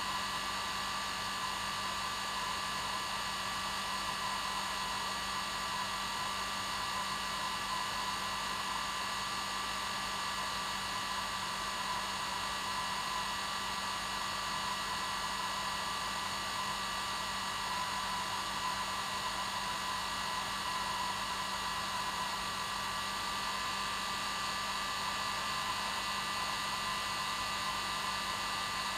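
Hair dryer running steadily, a constant rush of air with a steady motor whine that never changes.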